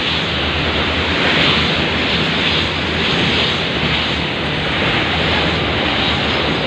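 Long freight train of covered car-carrier wagons rolling past close by: a steady, loud rushing rumble of steel wheels on the rails, with no distinct clacks standing out.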